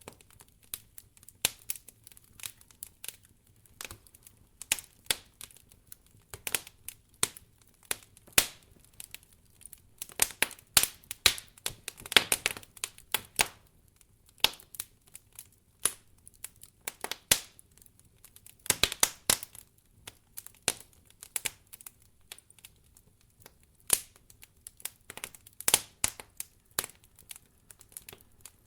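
Wood fire in a fireplace crackling: irregular sharp snaps, some in quick clusters.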